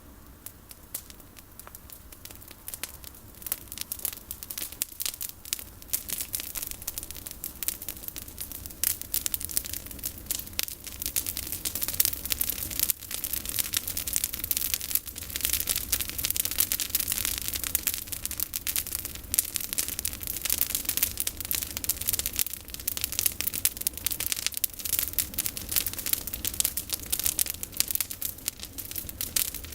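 Bonfire of pruned olive branches burning, a dense, irregular crackling of burning twigs that builds up a few seconds in and stays busy.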